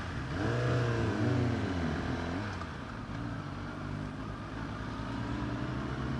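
Kawasaki ZX-10R's inline-four engine pulling away in traffic: the revs rise and fall a few times in the first two seconds, then it runs steadily.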